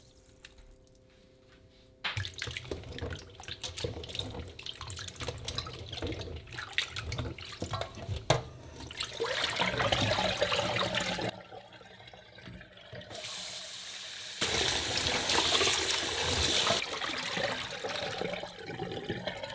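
Hands washing raw chicken feet in water in a sink: sloshing and splashing with small knocks of the feet against the bowl, and a running tap. It is faint for the first two seconds, then busy, and the tap is loudest for a couple of seconds past the middle.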